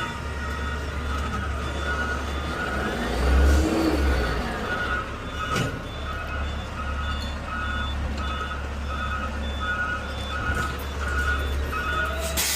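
Garbage truck's backup alarm beeping at a steady, regular pace, a little over one beep a second, heard from inside the cab over the low rumble of the engine.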